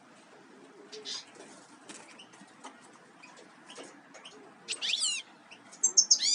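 Small songbirds calling: scattered high chirps, then two loud bursts of quick, falling calls about five seconds in and near the end.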